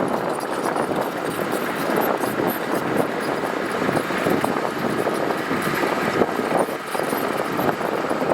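Heavy earthmoving machinery running steadily on a gravel road bed, a continuous engine drone mixed with dense rattling clatter.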